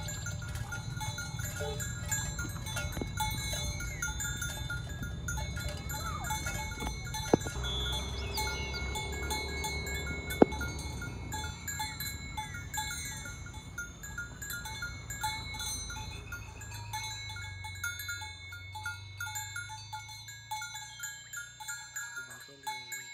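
Bells hung on cattle clanking and ringing over and over as the herd walks, over a low rumbling background, with two sharp knocks about a third and halfway through.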